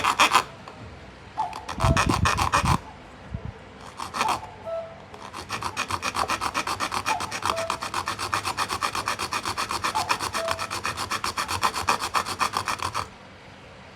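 Small hand saw cutting a metal clock part: rapid back-and-forth scraping strokes, about seven a second, in short bursts at first and then a long steady run that stops about a second before the end.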